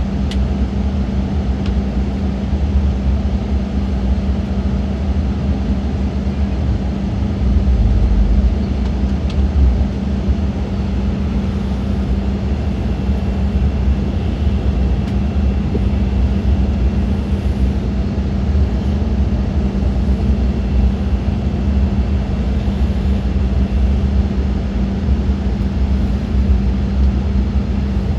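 Steady cabin noise inside an Embraer E-Jet airliner: a constant drone of engines and airflow with a steady hum and deep rumble, swelling briefly about eight seconds in.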